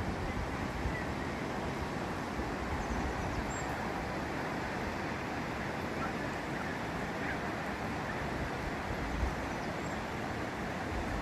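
Steady rushing wind of a snowstorm, with low rumbling on the microphone and a few faint high chirps now and then.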